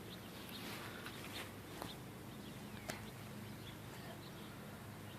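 Faint outdoor background with a few soft, short ticks.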